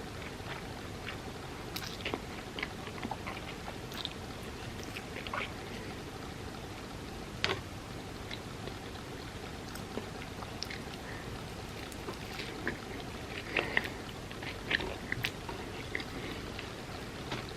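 Close-miked mukbang eating: chewing and biting into crispy fried food, with scattered sharp crunches over a steady background hiss, the crunches coming thicker near the end.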